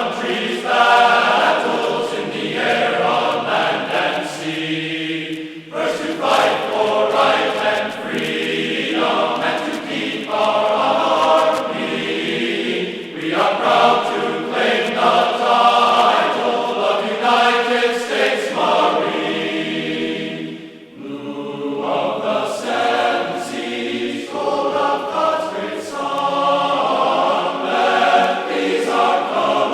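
Choral music: a choir singing in long sustained phrases, with brief pauses between the phrases.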